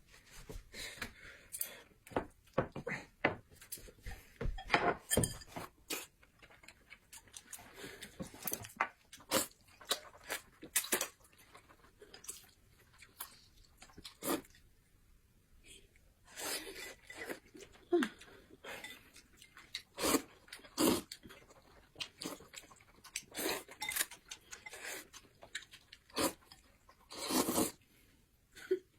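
Close-up eating sounds: irregular crunchy bites and chewing of crisp food, with a short pause about halfway through.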